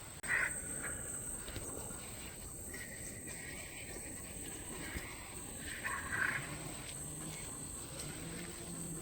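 Countryside ambience: a steady, high-pitched insect chirring with a few short animal calls, the loudest about half a second in and again about six seconds in. A low steady hum comes in near the end.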